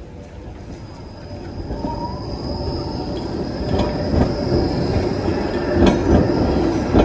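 Helsinki tram running on its rails and growing louder as it approaches, with a steady high-pitched wheel squeal. Its wheels clack over rail joints several times in the second half.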